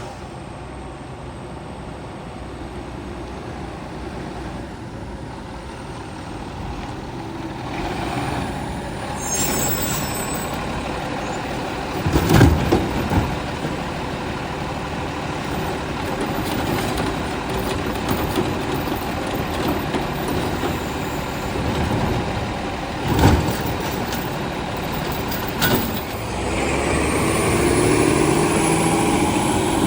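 Heil STARR System garbage truck running and working, its engine building up several times with a rising whine near the end. There are two sharp loud bangs, one about twelve seconds in and another about twenty-three seconds in, and a brief high squeal with air-brake hiss.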